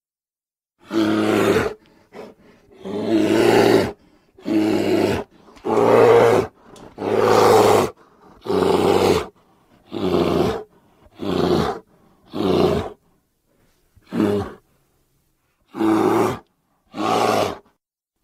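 Bear roars from an animated film's sound effects: about a dozen separate roars, each lasting roughly a second, with silence between them.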